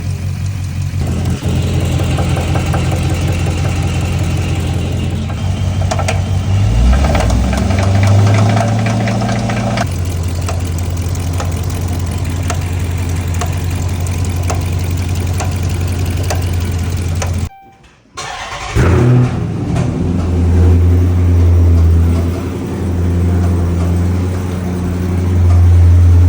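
Dodge Charger SRT8's 6.4-litre Hemi V8 running with rod knock, a light regular knocking under the engine note; a sign of a failing connecting-rod bearing in the bottom end. The revs rise briefly a third of the way in, the sound cuts out about two-thirds through, then the engine runs again with the revs swelling up and down.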